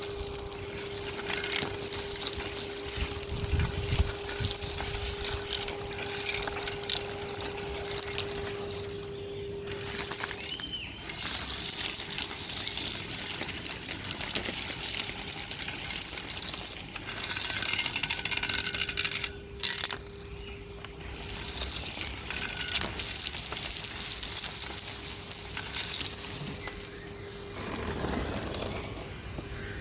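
Henry HVR 200-22 vacuum cleaner running with a steady motor hum, crunching and rattling as it sucks grit and debris off the street. The sound drops away briefly twice, around ten and twenty seconds in.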